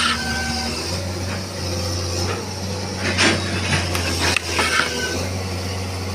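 Excavator engine running with a steady low drone, with a few sharp knocks and short squeaks between about three and five seconds in, typical of the machine's working parts under load.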